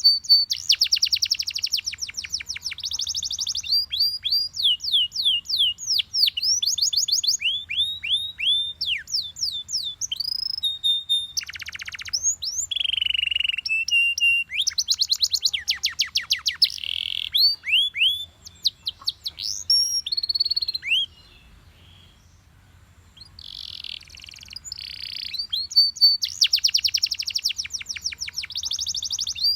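Canary singing: fast trills of repeated downward-sweeping notes, one phrase running into the next. About two-thirds of the way through the song breaks off for a couple of seconds, then starts again with a fresh trill.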